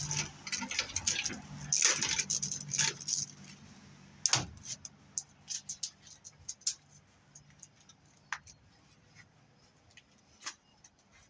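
Handling of scrap BX armored cable and metal pieces. Scraping and rustling come first, then one loud knock about four seconds in, followed by a run of light metallic clicks and ticks.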